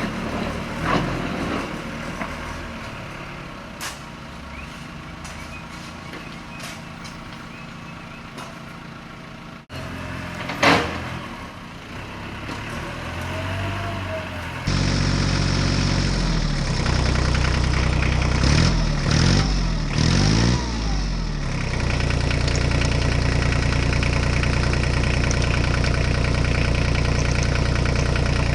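Clicks and knocks over a low background, then, after an abrupt change about halfway through, a steady engine-like running sound that wavers for a few seconds and then holds steady.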